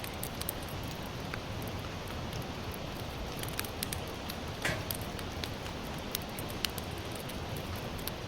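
Sawtooth oak (kunugi) firewood burning in a campfire: a steady hiss with many scattered sharp crackles and pops.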